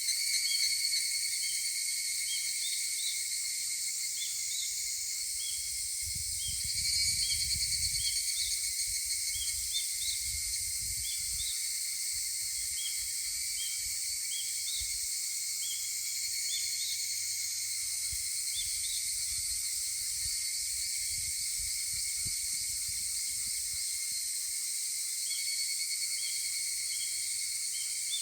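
Higurashi evening cicadas calling in a dense dawn chorus, a steady high ringing, with short high chirps repeating through it. A brief low rumble rises about seven seconds in.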